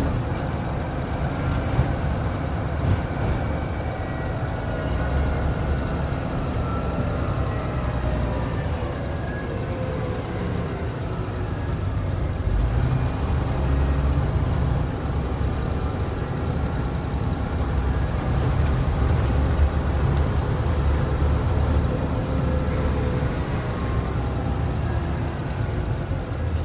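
Scania N94UD double-decker bus's DC09 diesel engine running on the move, with a steady low rumble and an engine note that rises and falls several times as the bus accelerates and eases off.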